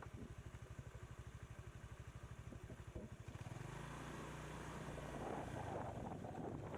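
Motorbike engine running at low revs with an even, rapid pulsing beat. About halfway through it picks up into a steadier, slightly louder run, with wind noise on the microphone.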